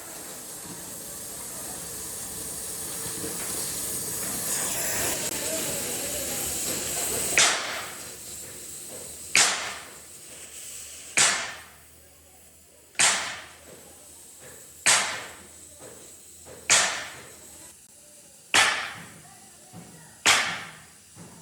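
A steady hiss that grows louder and stops suddenly about seven seconds in, followed by sharp strikes at an even pace of about one every two seconds, each dying away quickly.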